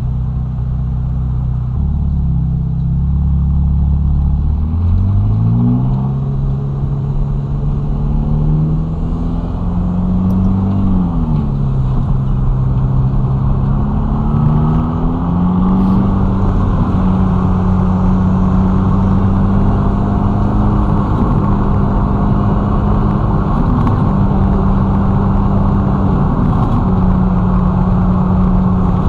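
Ferrari Roma's twin-turbo V8 pulling away from low revs: the engine note rises about five seconds in and climbs, dips briefly around eleven seconds, climbs again, then holds a steady cruise from about sixteen seconds on, with steady road and tyre noise underneath.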